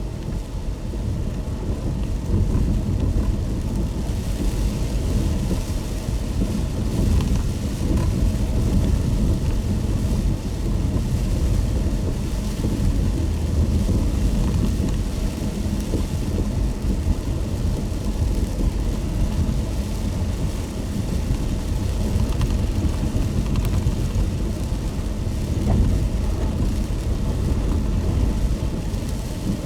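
A car driving in the rain: a steady low rumble of the road and engine, with an even hiss of rain and wet tyres over it.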